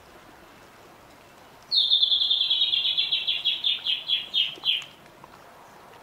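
A rainforest bird singing one trill of rapid repeated notes. It starts about two seconds in, lasts about three seconds, and slows and drops slightly in pitch toward the end.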